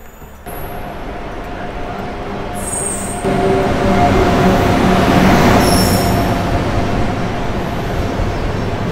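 The Ahmedabad–Mumbai double-decker express rolls into the platform behind an electric locomotive. It gets louder as the locomotive passes about three seconds in, and the coaches keep rolling by after it. Brief high wheel squeals come twice, a few seconds in and again about six seconds in.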